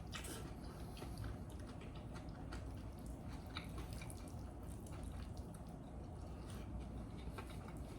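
A person chewing and eating, with many small scattered clicks and wet mouth sounds.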